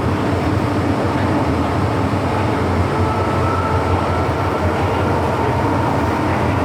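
MTR Tsuen Wan Line M-Train metro running steadily on the track, with a faint high whine joining in about three seconds in.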